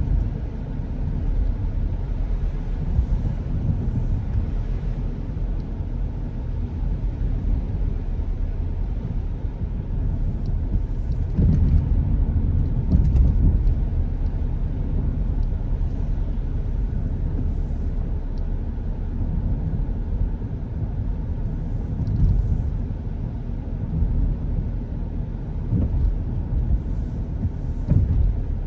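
Car being driven on a wet road, heard as a steady low road and tyre rumble with a few brief louder bumps along the way.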